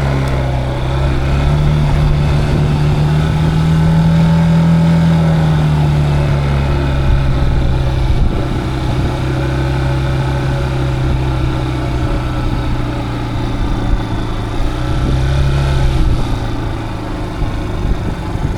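Motorcycle engine running steadily at cruising speed under light throttle, the note rising a little and then easing. About three seconds before the end it drops lower as the throttle is closed.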